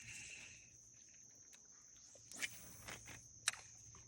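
Insects trilling steadily on one high note, with a few sharp clicks and knocks, the loudest about three and a half seconds in.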